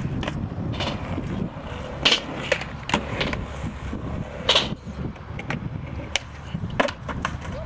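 Skateboard wheels rolling on pavement with a steady rumble, broken by a string of sharp clacks from the board, the loudest about two seconds in, about four and a half seconds in and near the end.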